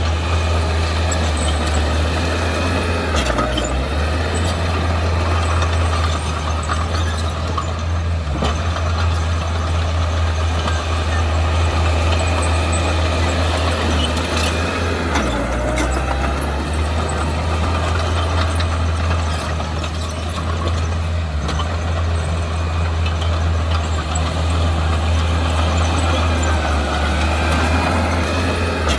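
Diesel engine of heavy earthmoving machinery running steadily under work, its note dipping and shifting briefly about three times, with faint high squeaks.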